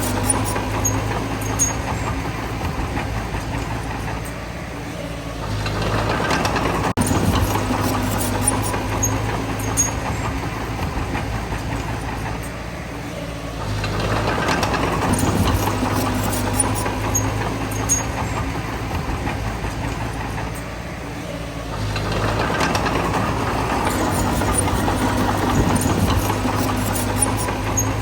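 Bulldozer's diesel engine running, swelling louder three times about eight seconds apart as it takes load, with light clanks scattered throughout.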